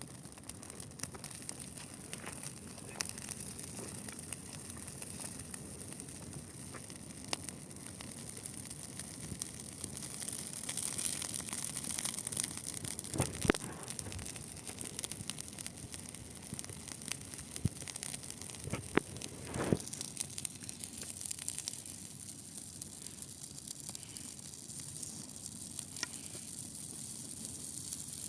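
Dry grass burning in a large bonfire: a steady hiss full of quick crackles and pops, with a couple of louder snaps around the middle.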